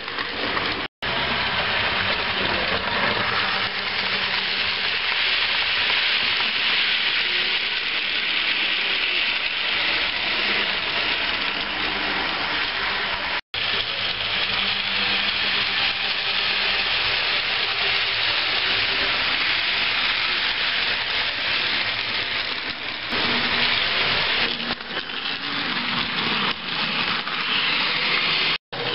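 HO-scale model trains running along the track: a steady hiss-like rolling noise of wheels on rail with a faint motor hum. The sound cuts out abruptly three times.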